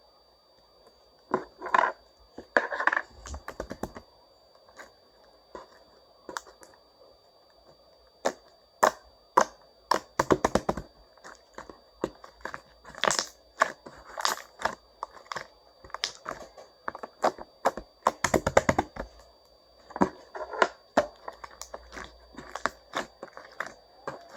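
Slime being kneaded and stretched by hand, a hardened slime being worked into a chewy one: irregular sticky pops, clicks and squelches, with a few longer crackling, tearing stretches.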